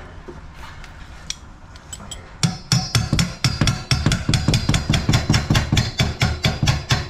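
Rapid hammering, about six even blows a second, starting a little over two seconds in after quiet handling noise.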